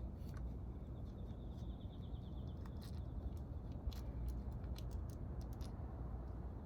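Scattered light clicks and taps over a low steady hum, with a faint fluttering high whistle for the first few seconds.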